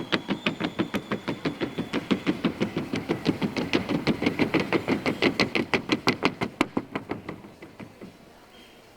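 Hooves of a Colombian trocha-gaited mare beating a fast, even rhythm of sharp knocks, about six a second, on a wooden sounding board. The beats thin out and stop after about seven seconds.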